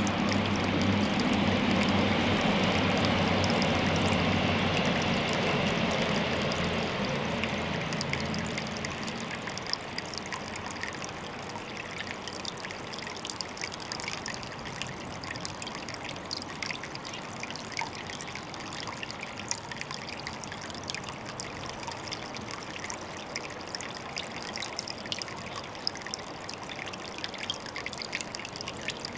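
Water trickling and splashing in small drops at a pond, steady, with many little ticks over a hiss. A low rumble sits under it for the first several seconds and fades away about a third of the way in.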